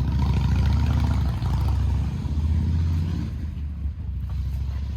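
Motorcycle engine running with a strong low beat, revving up a little past halfway and then easing back down.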